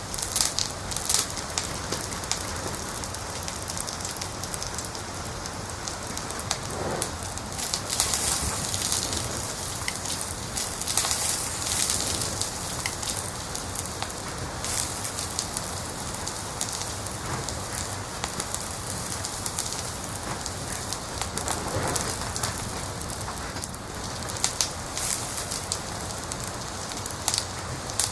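Wood fire in a fireplace crackling: a dense, steady patter of small sharp pops over a continuous hiss, with some louder pops.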